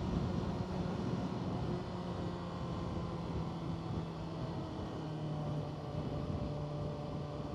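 Motorcycle engine running steadily under way, mixed with a steady rush of riding noise. Its note drops a little about five seconds in as it eases off.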